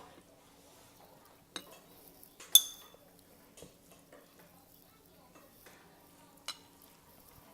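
Eating utensils clinking against a bowl: a few separate clinks, the loudest about two and a half seconds in, with a short ringing after it.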